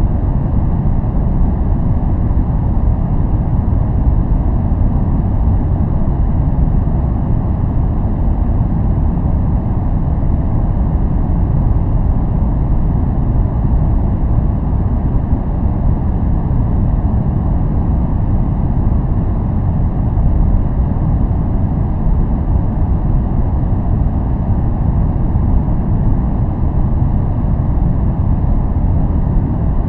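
Steady, unchanging noise played as a focus aid, weighted heavily to the low end: a deep, even rumble with little hiss, closer to brown noise than true white noise.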